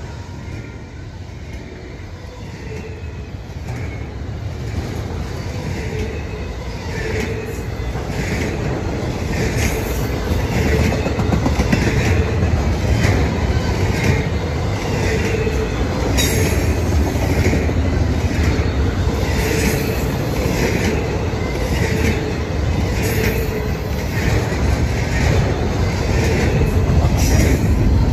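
Double-stack intermodal well cars of a long freight train rolling past at speed: a heavy steady rumble of steel wheels on rail, with a regular clickety-clack from the wheel sets. It grows louder over the first several seconds.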